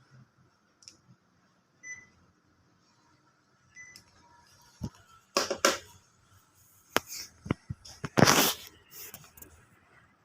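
Split air-conditioner indoor unit giving two short beeps about two seconds apart, the acknowledgement beep as it takes a remote-control signal. This is followed by a run of sharp clicks and louder noisy knocks.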